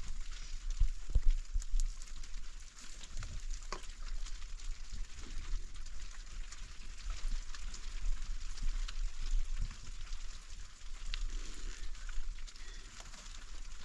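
A steady hiss with scattered small crackles and clicks over a low rumble.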